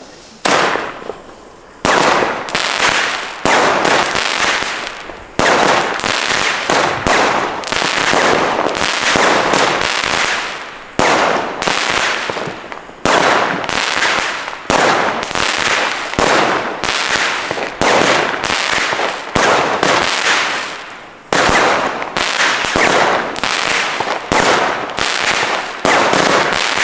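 Weco Tristan 19-shot multi-effect firework battery firing: a fast string of shots about one a second, each a sharp bang followed by a crackling, fizzing tail as the effects burst.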